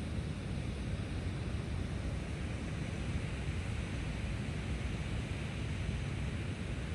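Steady rushing, rumbling noise of moving air, heaviest in the low end, holding at an even level without pauses.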